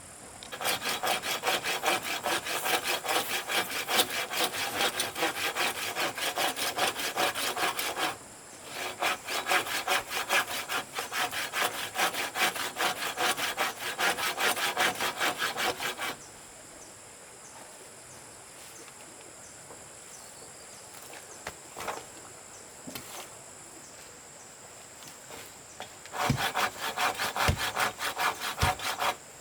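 Hand saw cutting wood in quick, even strokes. It saws in two long bouts with a brief stop about eight seconds in. It then pauses for about ten seconds, with a few light knocks, and starts sawing again near the end.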